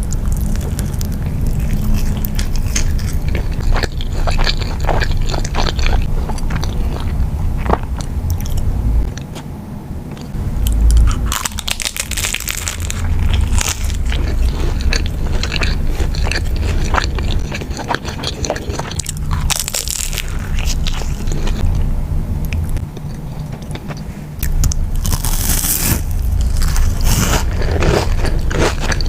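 Close-miked eating sounds: crunchy bites and chewing, with utensils scraping, over a steady low hum.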